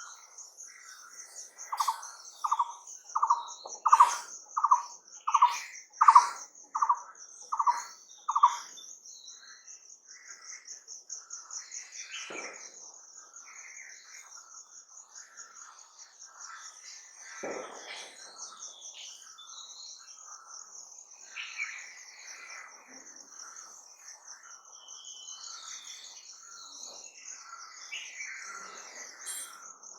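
Wild birds calling over a steady, high, pulsing insect trill. One bird gives a loud series of about ten evenly spaced notes, roughly one and a half a second, in the first third. Softer, scattered calls from other birds follow.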